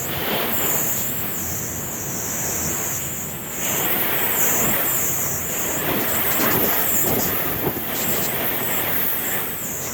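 Gale-force wind of about 50 knots rushing and gusting, buffeting the microphone; it strengthens about three and a half seconds in.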